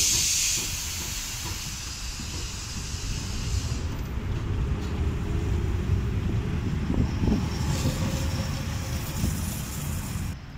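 Rome's Roma–Giardinetti narrow-gauge electric train rumbling over wet track as it approaches and passes, the low running noise building over several seconds before cutting off abruptly near the end. A loud hiss at the very start fades away over the first few seconds.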